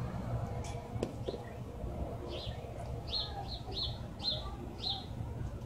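A small bird chirping: a string of short, high chirps, about five in quick succession in the second half, over a low steady background rumble.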